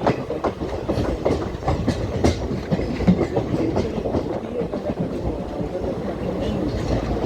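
Passenger coach of an Indian Railways express running slowly, its wheels clicking irregularly over rail joints, with a steady rumble and rattle of the coach.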